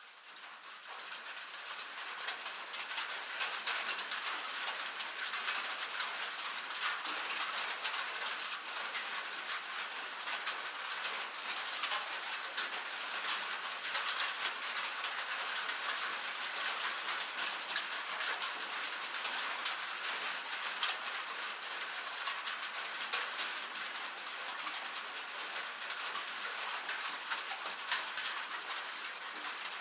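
Rain pattering on a metal roof, a dense steady patter of countless small drop ticks that fades in over the first couple of seconds.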